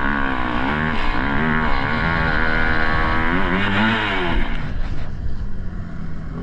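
An engine revving up and down repeatedly for about four seconds, then dropping back to a lower, rougher running sound.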